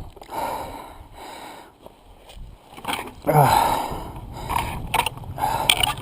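A rider breathing hard, with gasps and sniffs close to the helmet microphone, after a spill in the rocks, the dirt bike's engine no longer running. A short falling groan comes about three seconds in.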